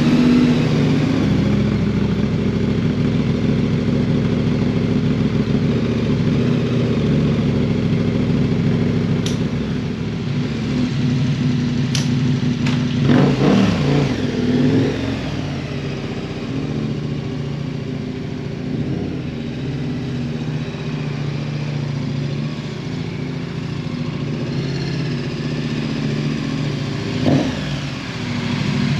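KTM 1290 Super Adventure's V-twin engine running steadily, with a short rise in level and a little clatter about halfway through.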